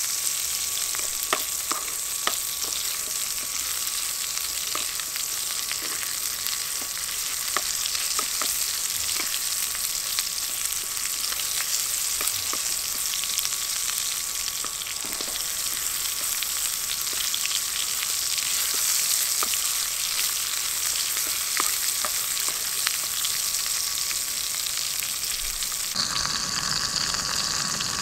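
Pieces of pork chop sizzling and crackling in hot fat in a titanium fry pan, with a steady hiss and scattered pops, while a silicone spatula moves them around. Near the end a low rumble joins in.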